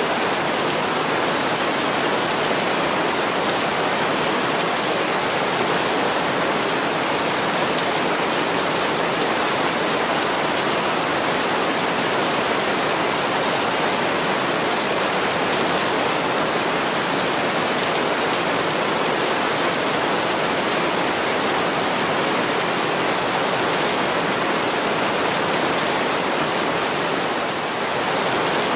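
Heavy rain pouring steadily onto window glass, an even, unbroken hiss with no separate drops standing out.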